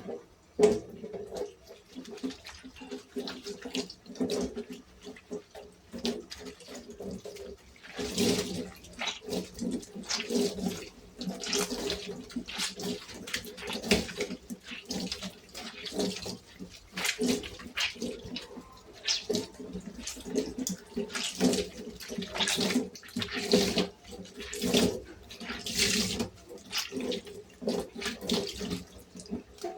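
Water running from a tap and splashing in irregular bursts, with short knocks and clatters, as things are washed at a sink. A faint steady low hum sits underneath.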